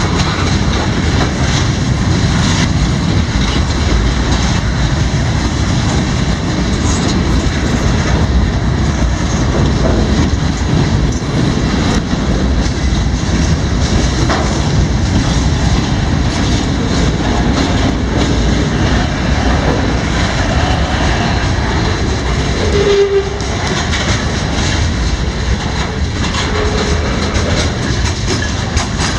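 CSX freight train cars rolling steadily past at close range, wheels clicking over the rail joints. There is a brief higher tone about 23 seconds in.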